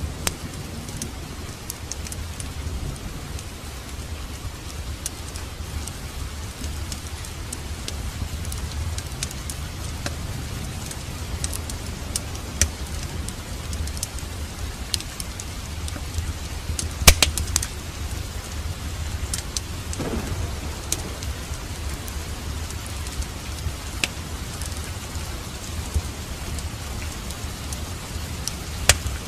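Steady rain mixed with a crackling fireplace: a hiss of rain over a low rumble, broken by scattered sharp pops, the loudest about 17 seconds in.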